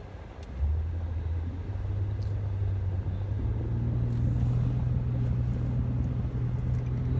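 Car engine heard from inside the cabin, its low hum picking up about half a second in and rising slowly in pitch as the car accelerates.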